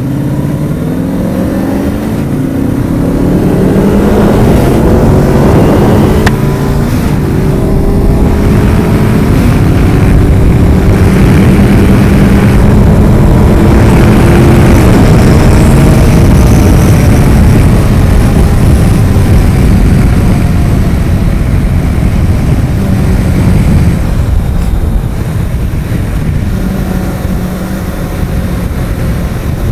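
Motorcycle engine accelerating hard, its pitch climbing and stepping through several gear changes, then held at high speed before easing off near the end.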